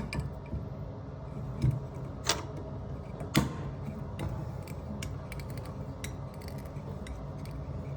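Milwaukee close-quarters tubing cutter being turned around a pipe to cut it off, a low steady scraping with a few sharp clicks in the first few seconds.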